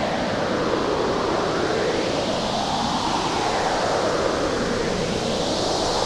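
Cartoon hurricane wind sound effect: a steady rushing storm wind that swells and eases in slow waves, about every three seconds.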